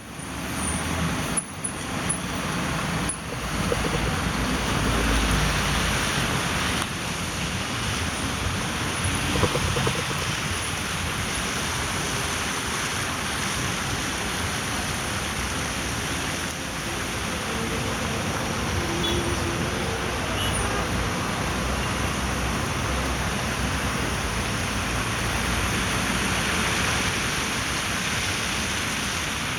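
Steady road traffic noise: a vehicle running, with a continuous hiss of tyres and road.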